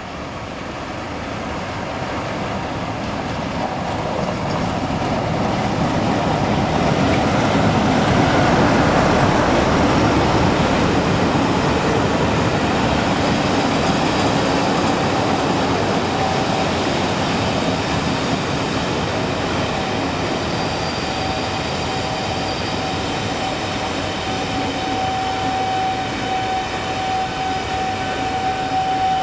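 Class 47 diesel locomotive drawing near and passing, loudest about eight seconds in, followed by the rumble of coaches rolling by. In the second half a steady high squeal builds as the train slows to arrive.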